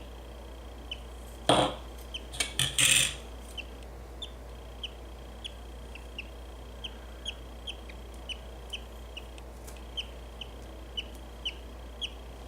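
Budgie chick cheeping: short high chirps repeated about twice a second. A few loud knocks and rustles of handling come in the first three seconds.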